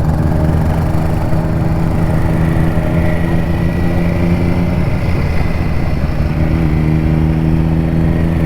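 Kawasaki Z900's inline-four engine running under way at fairly steady revs, easing off slightly about halfway through and then picking back up.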